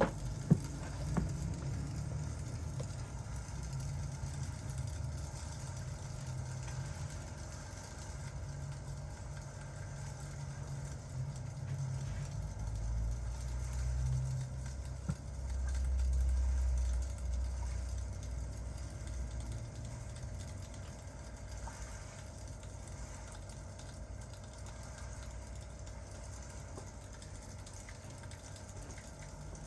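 Distant thunder rumbling from a rain-and-fireplace ambience track. It swells to its loudest a little past the middle, then fades back to a low rumble, with a few sharp crackles near the start.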